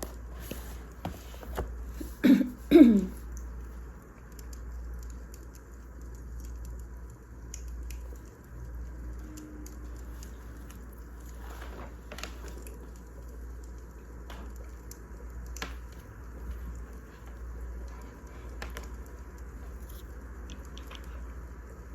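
Firewood burning in a fireplace, with scattered crackles and snaps over a steady low hum and hiss. About two seconds in, two loud short sounds fall in pitch.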